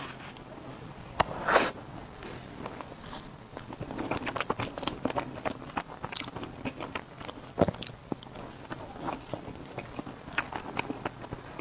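Close-miked eating of strawberry cake: a couple of loud bites about a second in, then a long run of chewing clicks and smacks, with another sharp bite past the halfway point.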